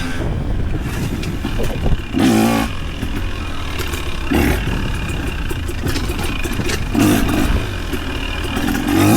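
The engine of an off-road vehicle running under a steady low rumble, revving up and down in several short bursts.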